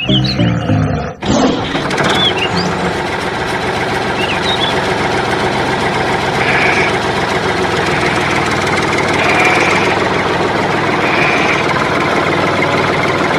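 A small electric motor starts about a second in and then runs steadily. Before it, a short stretch of music ends.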